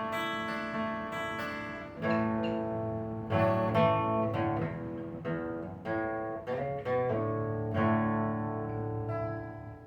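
Instrumental song music led by acoustic guitar, with plucked and strummed chords. A low bass part comes in about two seconds in and fills out the sound.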